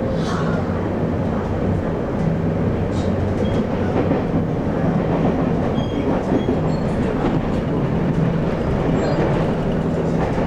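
Taiwan Railways local express train running at speed, heard from inside the carriage: a steady rolling rumble with a low steady hum that drops out briefly now and then.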